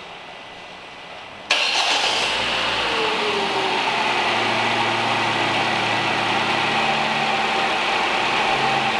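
Citroën New C3's 1.5 TU4 four-cylinder petrol engine starting about a second and a half in. The revs flare and fall back, then settle into a steady cold idle a little over 1000 rpm.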